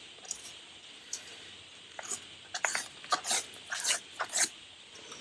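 Paper being handled and folded by hand: a few faint ticks, then a run of short, crisp rustles and taps through the second half.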